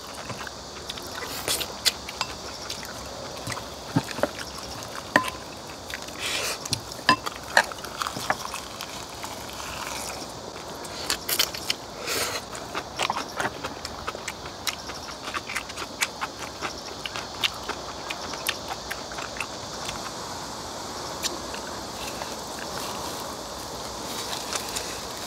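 Close-miked eating sounds: chewing and crunching of kimchi and roasted laver wraps, with irregular clicks and clinks of chopsticks and spoons against glass bowls and a steel pan.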